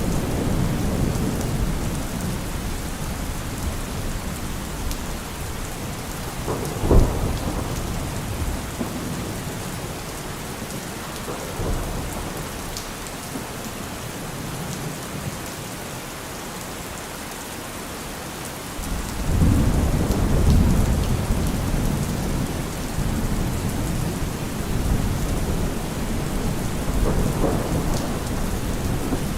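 Steady rain falling, with thunder: a sharp clap about seven seconds in, and a low rolling rumble that swells up about two-thirds of the way through and carries on.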